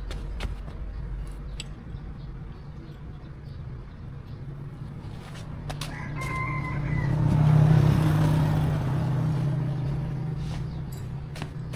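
A rooster crows once, about six seconds in. Under it a low hum swells to its loudest just after the crow and fades away, with scattered light clicks and knocks.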